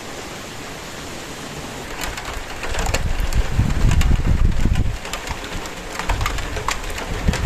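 Steady rain hiss; from about two seconds in, louder irregular crackles and low rumbling thumps join it and stay on.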